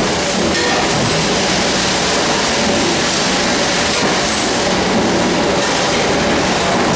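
Steady, loud mechanical running noise with a constant low hum underneath, recorded as an abnormal noise (異音).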